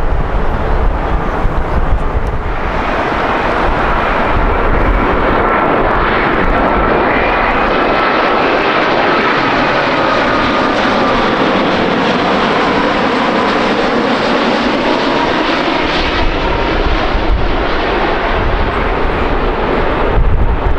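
Jet airliner passing close by: a loud rush of engine noise with a faint engine whine that sinks slightly in pitch. It swells a couple of seconds in, holds through the middle and fades away near the end.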